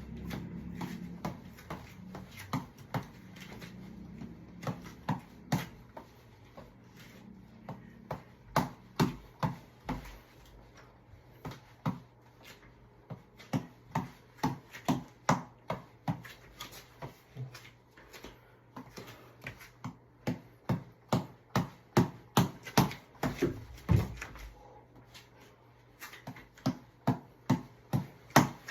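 A tap ball being hit over and over at an even pace of about two to three hits a second. The hits come in runs of several, with short breaks between the runs.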